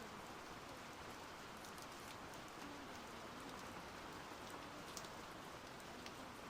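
Steady rain falling, a quiet even hiss with individual drops ticking sharply now and then.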